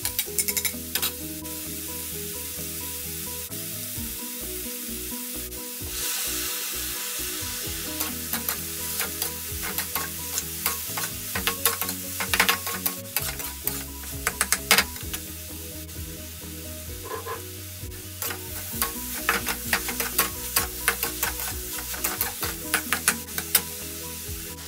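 Metal spatula scraping and clacking against a metal wok as fried rice is stir-fried, with the rice sizzling in the hot oil. The sizzle grows louder for a couple of seconds about six seconds in.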